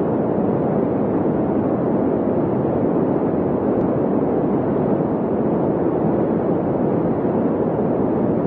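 A steady rushing noise with no clear pitch and no changes or sudden events.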